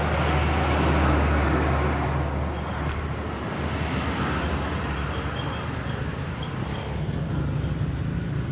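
Road traffic: a motor vehicle passes close by, its low engine hum loudest about a second in and dropping away after about three seconds, leaving steady traffic noise.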